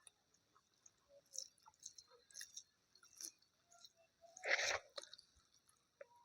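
A person chewing food close to the microphone, wet mouth clicks coming every second or so, with one louder, short, noisy bite or mouth sound about four and a half seconds in.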